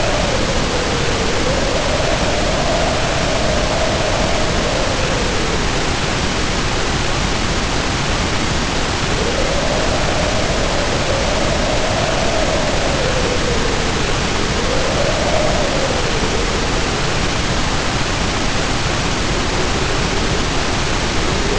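Heavy rain pouring down in a steady hiss, with wind howling over it, its pitch rising and falling in several slow swells a few seconds long.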